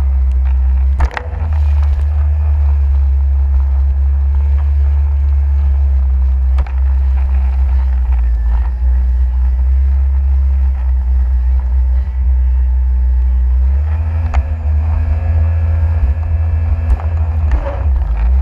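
Jet ski engine running, under a heavy steady rumble of wind on the microphone, with a few brief sharp knocks.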